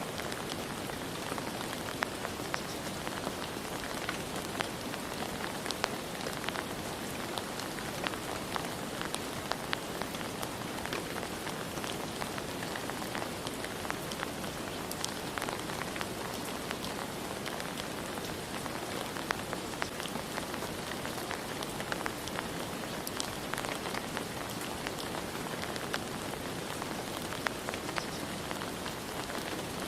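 Steady rain falling, with scattered individual drops pattering sharply on a surface.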